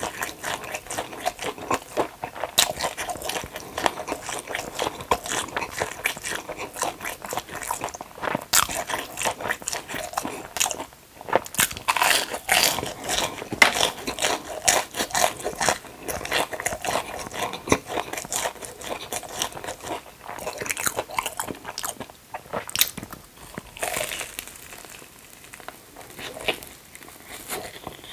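Close-miked mouth sounds of eating crispy-battered Korean hot dogs: crunchy bites and chewing, one after another.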